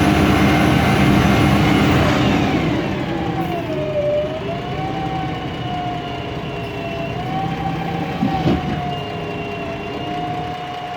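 MAN Lion's Classic city bus with a CNG MAN E2876 engine and Voith DIWA 864.3 automatic gearbox. The engine pulls hard, then eases off about two seconds in, leaving a gently wavering gearbox whine. A short knock comes near the end.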